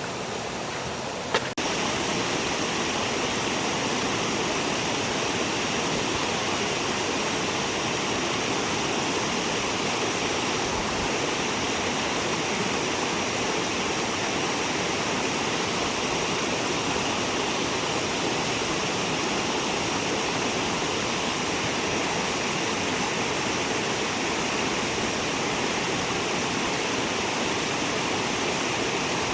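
Stream water rushing steadily over stones. A short click about a second and a half in, after which the rushing is louder.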